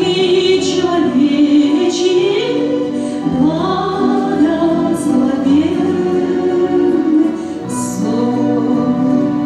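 A woman singing a song in Russian, holding and sliding between notes, with instrumental accompaniment.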